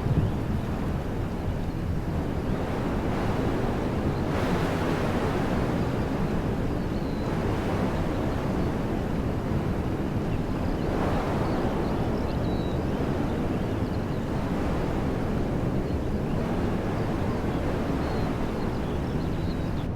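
Wind blowing through woodland trees: a steady rushing that swells in gusts about four and eleven seconds in, with a few faint high bird chirps now and then.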